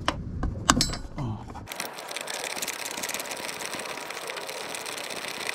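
A few knocks of metal tools, then fast steady clicking from about two seconds in: a ratchet wrench being worked.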